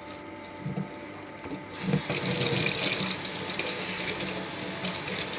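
Water running steadily, starting about two seconds in.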